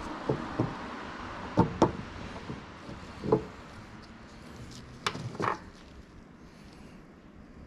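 Hand tools and brake parts being handled during front brake pad fitting: about seven sharp knocks and clinks at irregular intervals, the loudest a pair about one and a half seconds in, over a soft hiss that fades away.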